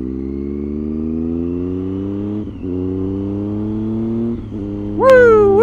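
Triumph Street Triple's three-cylinder engine accelerating away from a standstill, its pitch climbing steadily and dropping back twice as it shifts up a gear. Near the end, a loud "woo!" shouted by the rider.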